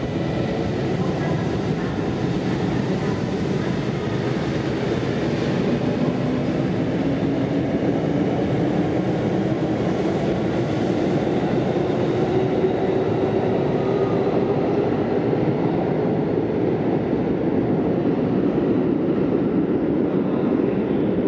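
Sanyo Electric Railway electric commuter train pulling out of the station and gathering speed along the platform. A steady rumble of wheels and running gear runs under a motor whine that rises slowly in pitch as it accelerates.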